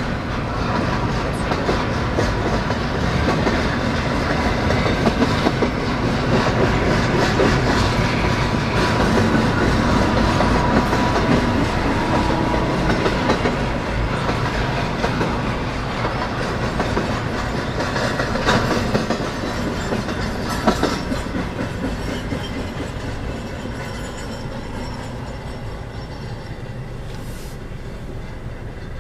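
Freight train cars rolling past, steel wheels clicking over rail joints with a steady rumble and screech of metal; the sound fades gradually over the last few seconds.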